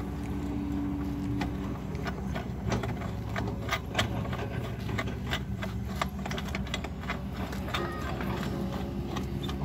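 Core drill on asphalt running steadily with a low motor hum, with many irregular sharp clicks and clinks over it.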